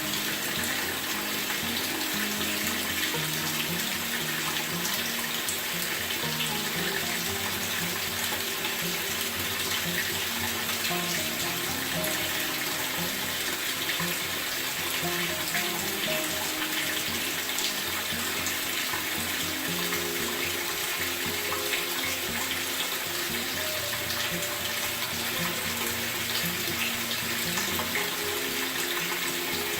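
Steady rush of running water, with background music playing underneath.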